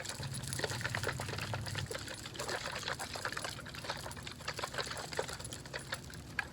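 Close-miked water sounds: wet, crackly trickling and splashing in many quick, irregular little pops.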